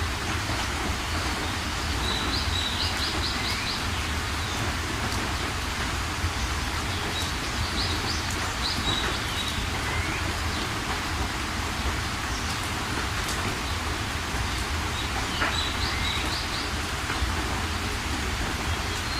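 Steady rain, with a bird chirping a few times over it in short runs of quick, high notes.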